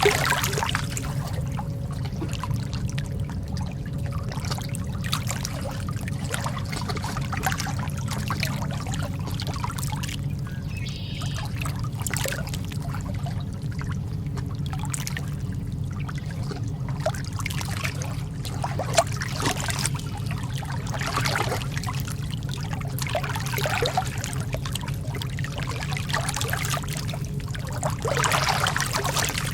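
Lake water lapping and trickling, with many small irregular splashes over a steady low rumble.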